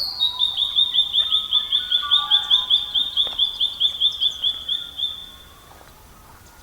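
A songbird singing a fast trill of about two dozen short, high, down-slurred notes, some five a second, slowly dropping a little in pitch and stopping about five seconds in.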